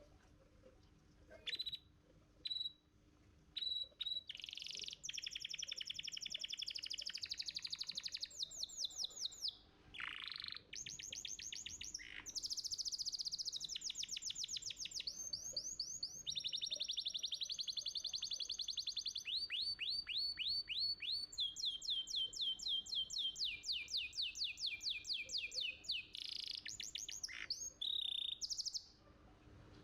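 Domestic canary singing: a few short chirps, then from about four seconds in a long, near-continuous run of fast high trills, each a rapid string of repeated notes, switching from one trill pattern to the next.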